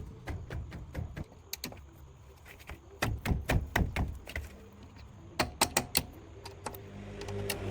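A string of sharp metallic clinks and knocks from parts or tools being handled, bunched in two flurries. A low hum builds up near the end.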